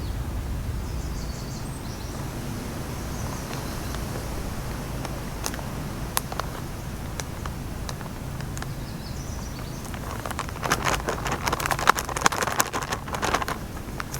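A steady low rumble with birds chirping now and then. From about ten seconds in comes a quick run of clicks and knocks as camp cooking gear is handled.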